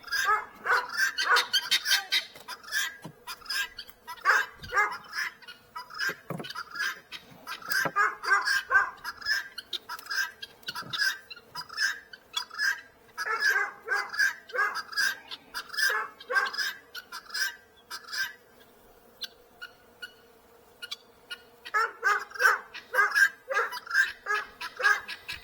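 Domestic fowl calling in rapid runs of short calls, breaking off for a few seconds past the middle before starting again. A faint steady hum runs underneath.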